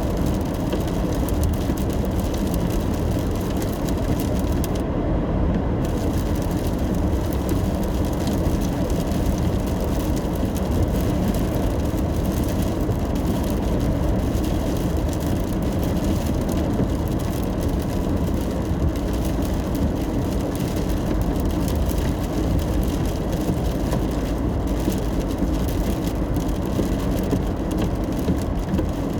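Steady road noise heard inside a car driving in the rain: a low drone of engine and tyres under the hiss of rain and wet road. The high hiss cuts out briefly about five seconds in.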